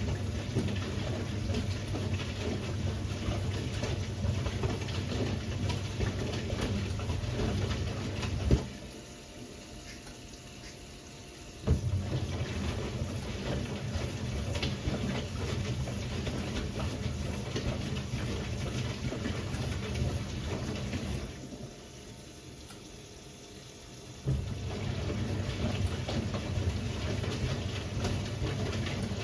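Siemens WA4600 washing machine tumbling a load of jeans in water: the drum motor runs with water sloshing for about eight seconds, stops for about three, then starts again with a click. It stops and restarts once more, the stop-and-go rhythm of the wash cycle turning the drum one way and then the other.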